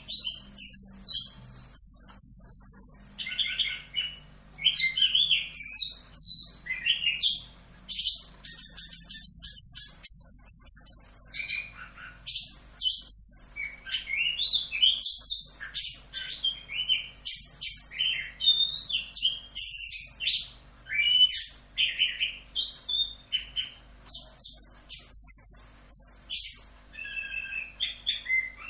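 Orange-headed thrush singing a continuous, rapid song of varied whistled and chattering phrases with only brief pauses.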